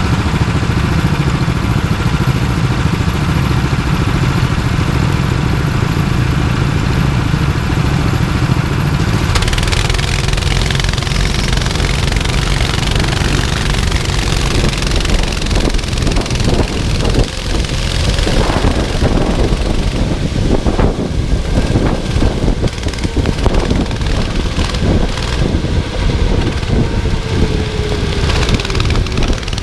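Go-kart engine running at a steady drone, then revving up and down unevenly about halfway in, with a hiss of wind and wet-track noise joining about a third of the way in.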